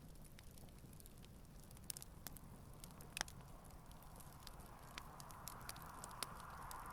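Campfire burning, with scattered sharp crackles and pops and one louder pop about three seconds in. A soft hiss builds up in the last couple of seconds.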